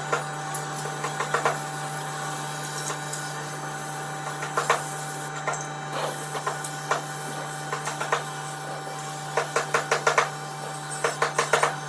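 Workshop sounds of woodworking: a steady electric hum runs under irregular light knocks and taps, with two quick runs of taps near the end.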